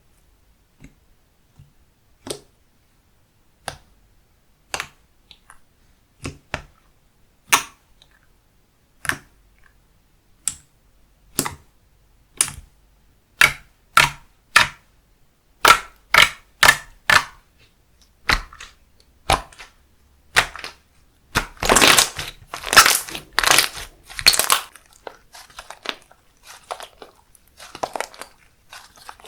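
Handmade slime being squeezed and poked by hand, making sharp wet clicks and pops. They come about once a second at first, then faster, and later run together into a dense stretch of crackling before trailing off into fainter crackles.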